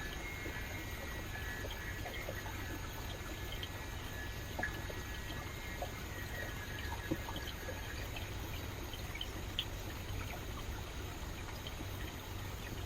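Rainforest stream flowing steadily, a continuous rushing haze with a low rumble and many small splashes and drips scattered through it. Faint thin high tones sound in the first few seconds and again about six seconds in.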